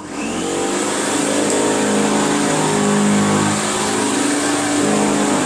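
1980 Electrolux 502 upright vacuum cleaner switched on: its motor comes up to speed with a faint rising whine over the first second, then runs steadily with a loud rush of air and a steady hum.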